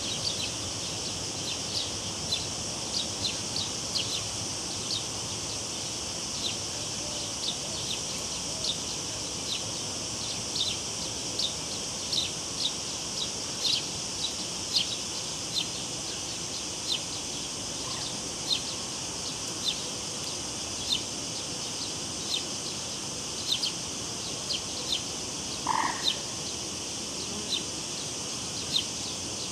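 Cicadas buzzing steadily and high, with short sharp chirps popping in irregularly about once or twice a second over a soft even rush of river water. A single brief lower call comes about 26 seconds in.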